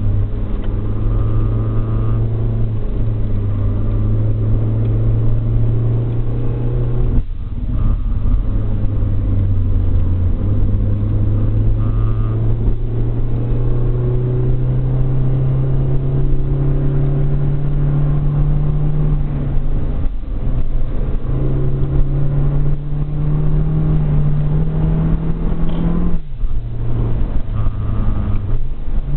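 Car engine running under way, heard from inside the cabin, its pitch climbing slowly as the car pulls, with two brief dips, about a quarter of the way in and near the end, where the engine note drops back.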